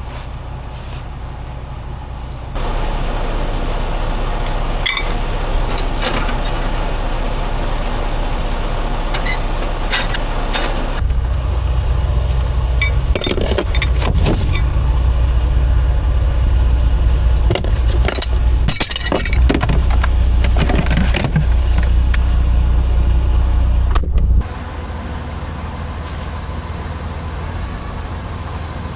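An engine runs steadily. It gets louder about two and a half seconds in, louder again around eleven seconds, and drops back abruptly near the end. Scattered metallic clinks and knocks sound over it.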